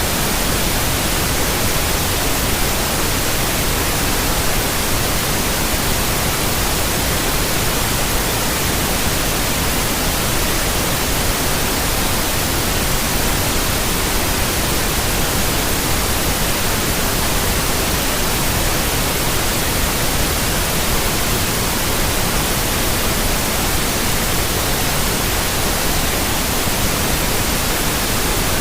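Steady, unchanging synthetic noise spread evenly across all pitches, a continuous hiss played as a white-noise track for relaxation or sleep.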